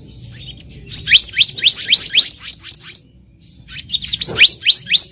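Black-naped monarch singing: two runs of quick, rising whistled notes, about four a second. One runs from about a second in, and the second comes near the end with a brief low thump under it.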